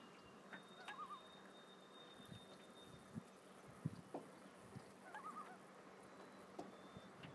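Faint, distant common loon calls: two short quavering calls, one about a second in and another about five seconds in, over a very quiet lake background.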